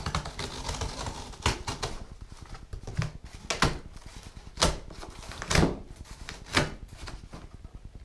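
Cardboard packaging being handled and opened: a string of about seven sharp knocks and scrapes a second or so apart, with rustling between them.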